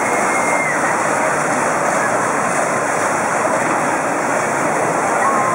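Steady, loud rushing noise of a jet ski ride: water churning and a motor running together, with no change in level.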